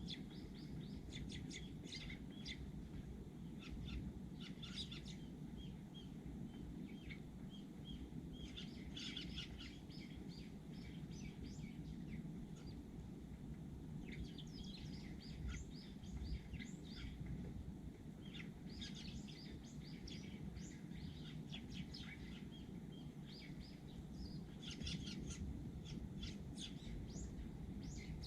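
Eurasian tree sparrows chirping in repeated bursts of short, high chirps, over a steady low background rumble.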